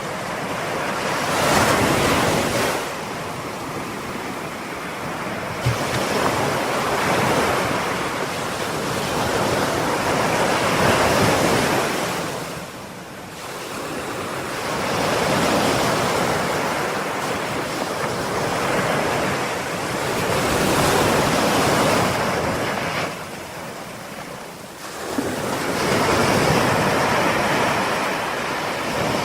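Ocean surf: waves breaking and washing up the shore in repeated swells and lulls every few seconds, with a noticeable lull about halfway through and another near the end.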